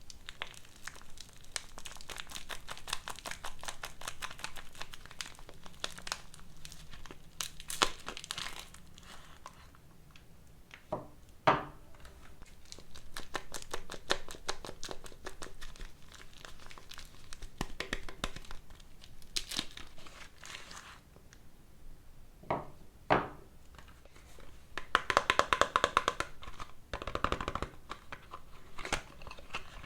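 Soap wrappers crinkling and tearing as bars of soap are unwrapped by hand, in dense crackly bouts. A few sharp single knocks come in between the bouts.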